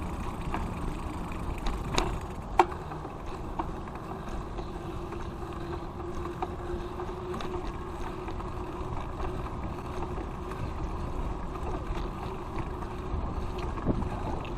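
Bicycle being ridden on pavement: a steady rumble of tyres and wind on the microphone, with a sharp click about two and a half seconds in.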